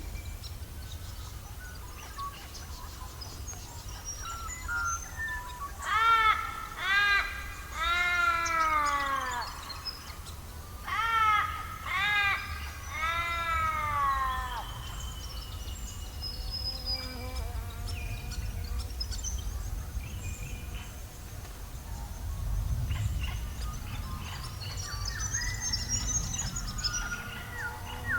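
A bird giving two series of drawn-out calls that rise and then fall in pitch, four calls and then three, while smaller birds chirp in the background, busier near the end. A steady low rumble runs underneath.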